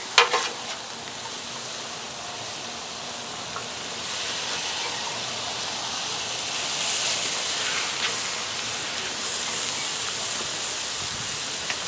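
Cauliflower fried rice sizzling on a hot flat-top griddle, a steady hiss that grows louder about four seconds in. Metal spatulas scrape and clack on the griddle at the start.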